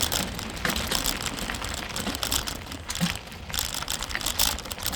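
Bicycle rattling and clicking as it is ridden up a steep dirt trail, with irregular mechanical clicks from the drivetrain and a low rumble from the ride.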